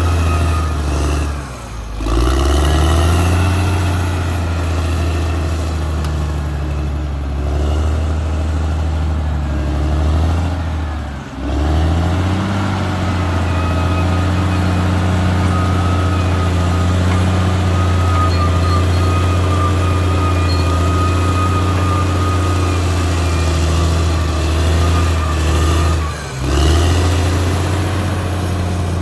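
Caterpillar D6R XL bulldozer's diesel engine running steadily at working speed, with a steady whine above its deep hum. The engine speed dips briefly three times, about two, eleven and twenty-six seconds in, then climbs back.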